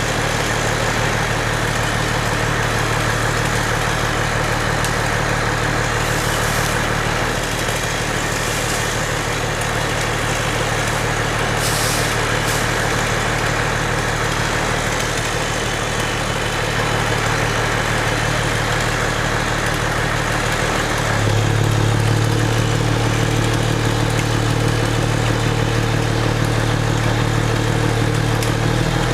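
An engine running steadily. About two-thirds of the way through, its low hum steps up in pitch and gets a little louder, as if the engine has sped up.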